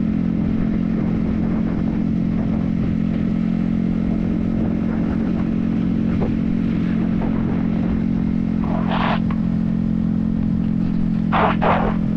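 Yamaha XSR155's 155 cc single-cylinder engine running at a steady cruise, its pitch holding constant, picked up by a helmet-mounted camera. Short hissing bursts come about nine seconds in and twice near the end.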